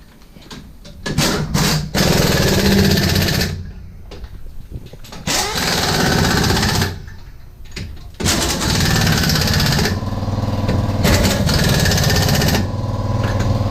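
Pneumatic impact wrench hammering in repeated bursts of one to two seconds, with short pauses between them, as suspension bolts are run on a pickup.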